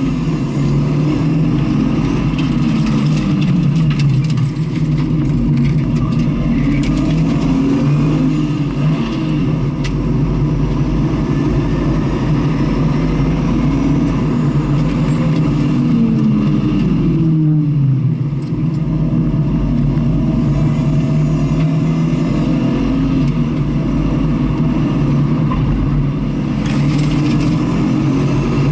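Engine of a vehicle lapping a circuit, revving up and down through gear changes, with one long fall in pitch about 16 to 18 seconds in as it slows.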